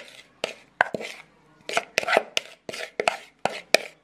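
Close-miked crunchy chewing of food, a string of sharp crisp crunches at about two to three a second.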